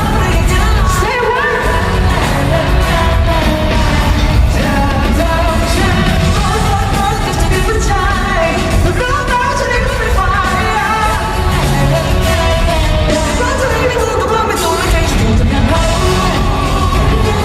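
A band playing a pop song live with a singer, loud and steady, with a regular beat.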